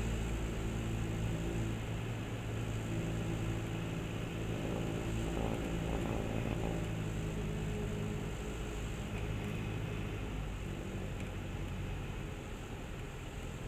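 Single-engine Cessna 172M's four-cylinder Lycoming engine running at low, steady power, heard inside the cockpit with a steady hiss of airflow; it drops slightly in level near the end.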